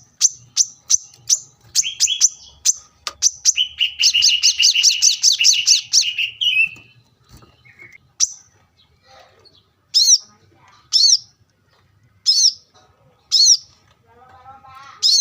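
Small songbirds singing high, rapid chirps that run into a dense fast trill, then after a lull a series of separate high sweeping notes about once a second.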